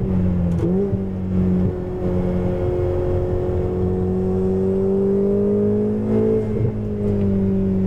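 Ferrari 488 GTB's twin-turbo V8 heard from inside the cabin while lapping a track. A quick rev blip on a downshift comes about half a second in as the car brakes, then a steady engine note rises slowly under acceleration, with a gear change near the end.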